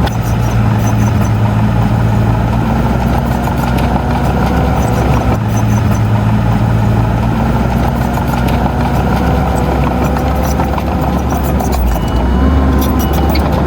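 Heavy diesel engine of an earthmoving machine running steadily at working revs, with faint clanks over it and a small change in engine note about midway and again near the end.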